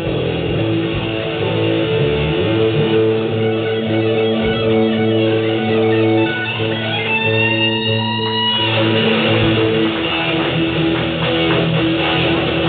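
Live band music led by strummed electric guitar over bass, recorded on a mobile phone with poor, dull sound quality. A rising note slides up about seven seconds in and breaks off a second and a half later.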